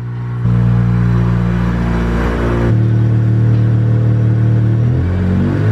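Acura RSX four-cylinder engine running as the car is driven up onto ramps, with a steady note that shifts a couple of times and revs rising and falling near the end.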